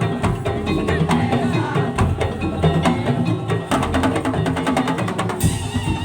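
Madurese tong-tong (daul) ensemble playing: wooden slit drums and drums in a dense rhythm under pitched melodic notes. A rapid run of strokes comes in the second half, then a bright crash near the end.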